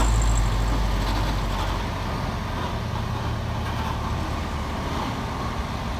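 Heavy truck engine labouring up a steep climb. Its loud low drone fades over the first two seconds as the truck moves away, then a steadier, quieter engine hum of the traffic continues.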